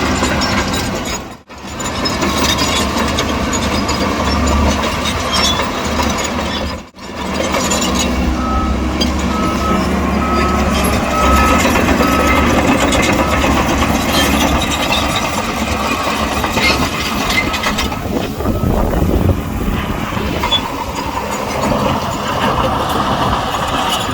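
Heavy diesel earthmoving machinery, a bulldozer and dump trucks, running steadily at a land fill, with a truck's reversing alarm beeping six times near the middle. The engine noise drops out briefly twice in the first seven seconds.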